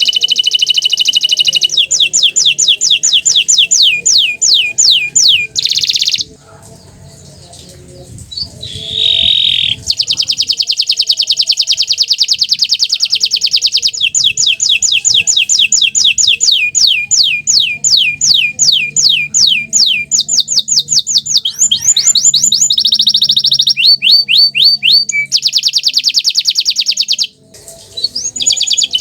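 Bottle-green canary singing loudly in long, fast trills and rolls of rapid repeated notes, some held as buzzing rolls and some as quick sweeping notes. The song breaks off for about two seconds some six seconds in and briefly near the end.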